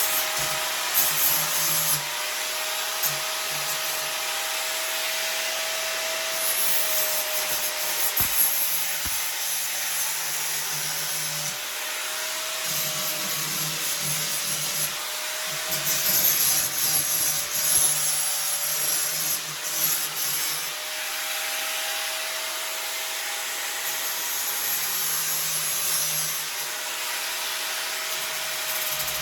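Angle grinder with a flap disc running and grinding down metal, a steady motor whine under a rasping noise that swells and fades over several passes as the disc is pressed on and lifted. The whine's pitch sags a little at times under load.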